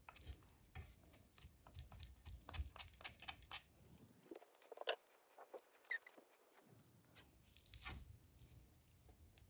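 Faint, irregular crunching and clicking of raw chicken wing pieces being worked by hand, the meat pushed and torn down the bone into a lollipop shape, with one sharper click about halfway through.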